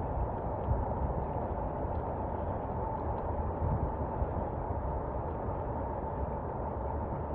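Steady rain, a dense muffled hiss with most of its energy in the low end and a few faint drop ticks.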